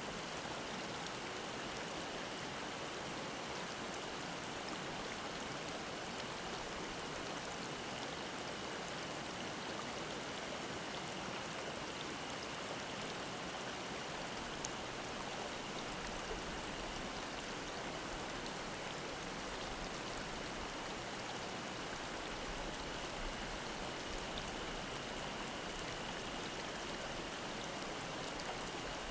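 Mountain stream babbling steadily, with a faint, even, high drone of cicadas held above the water sound.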